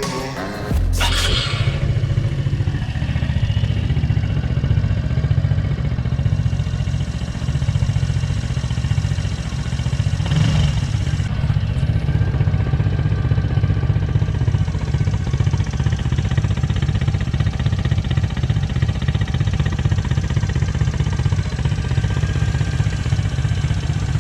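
Honda Super Cub's small single-cylinder four-stroke engine idling steadily through a Moriwaki exhaust with a titanium tip, giving a low, even putter, with one brief throttle blip about ten seconds in.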